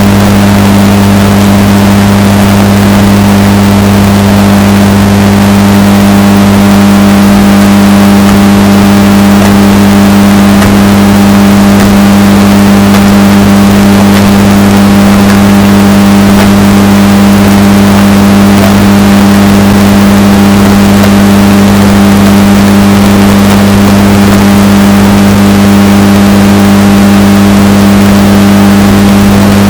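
Washing machine running with a steady, unchanging hum, bass boosted and distorted so that it is very loud throughout.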